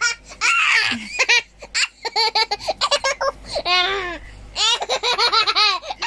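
A young girl laughing in quick runs of high-pitched giggles, several short bursts one after another.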